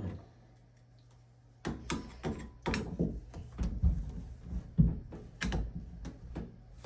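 Hand tools clicking and knocking against a shower valve in irregular strokes, starting after a quiet moment about two seconds in.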